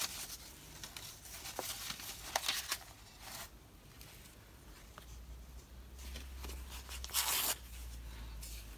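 Paper scraps being handled and torn at a craft desk: short scattered rustles, with one louder tear about three-quarters of the way through.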